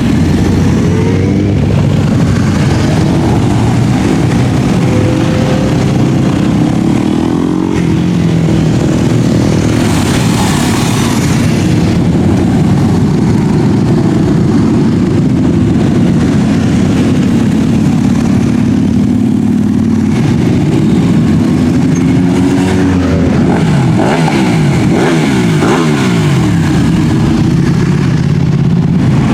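Many motorcycles riding past in a continuous stream, their engines running over one another and rising and falling in pitch as riders rev and pass.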